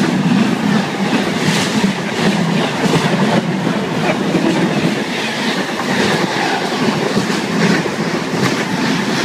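Moving train's wheels running on the rails, a loud steady rumble and rattle with scattered clicks, heard from an open window beside the track.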